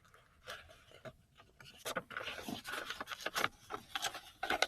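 A sheet of copy paper being folded and creased by hand: irregular rustles and scrapes of paper, more frequent in the second half.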